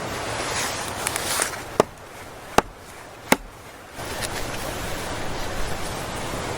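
A steady rushing noise that drops away for about two seconds in the middle, where three sharp knocks sound in quick succession.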